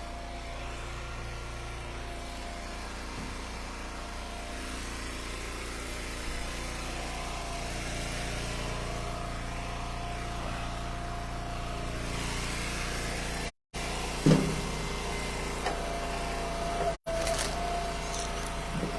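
Gas-engined hydraulic log splitter (Eastonmade Ultra) running steadily, with a steady higher tone joining about a third of the way in. A single loud sharp knock comes about two-thirds of the way through, with a few fainter clicks after it, and the sound cuts out briefly twice.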